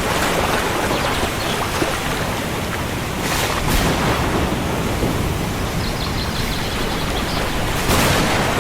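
Heavy rain falling steadily as a continuous hiss, with a low rumble of thunder underneath and brief swells of louder downpour a few seconds in and near the end.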